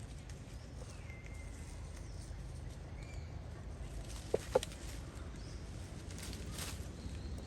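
Outdoor ambience with a steady low rumble and a few faint chirps, then two short, sharp animal squeaks in quick succession about four and a half seconds in.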